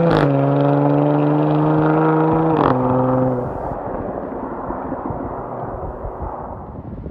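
Jaguar F-Pace SVR's supercharged 5.0-litre V8 accelerating hard, its note climbing, with two upshifts, each marked by a sharp crack and a drop in pitch. A few seconds in, the engine note gives way to a fading rush of tyre and wind noise.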